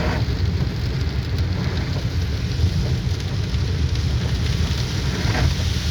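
Rain pattering on a moving car's windshield and roof, heard from inside the cabin over a steady low rumble of road and engine.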